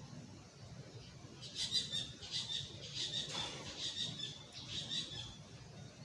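A bird chirping: a quick run of short, high chirps that starts about one and a half seconds in and stops near the end.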